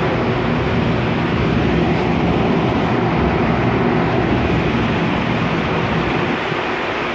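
Toshiba electric multiple unit train heard from on board while running: steady rumble and rolling noise with a low hum of several steady tones, easing slightly near the end.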